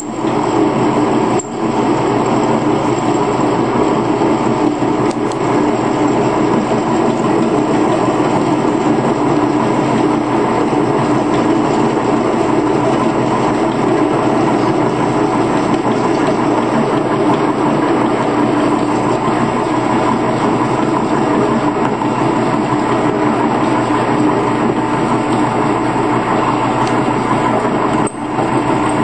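Harbor Freight 10 x 18 wood lathe, converted to cut metal, running steadily under power with a continuous mechanical hum.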